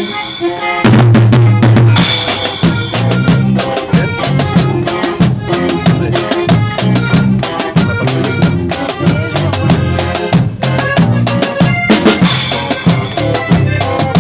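Norteño band playing an instrumental passage: a drum kit beating a steady rhythm over a bass line, with a short drop in the sound about half a second in.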